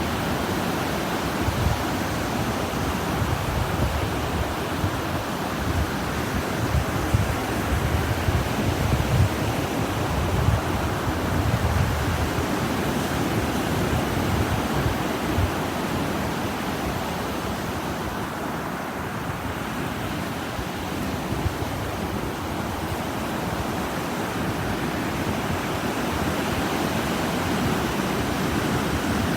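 Ocean surf breaking and washing onto a sandy beach: a steady, dense rush of waves with no distinct separate breaks.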